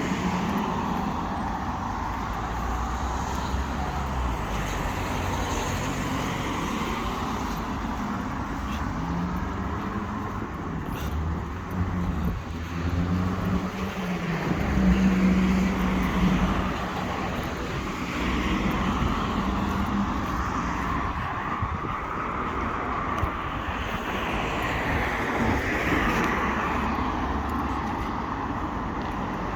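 Street traffic: a steady wash of passing cars, with one vehicle's engine running close by and loudest about halfway through.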